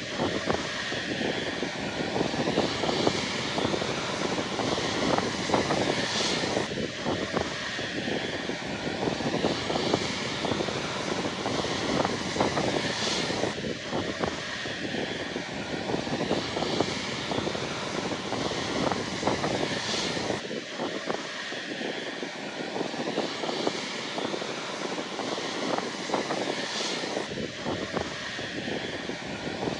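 Boeing 777 twin jet engines running at taxi power: a steady rush and whine, with a brighter surge of hiss about every seven seconds.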